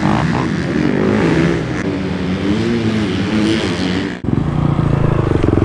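Dirt bike engines revving hard, their pitch rising and falling as the throttle works. About four seconds in there is a sudden break, then an engine is held at a steady high rev.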